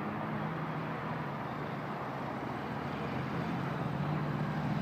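Dirt bike engine running steadily, its hum growing louder near the end.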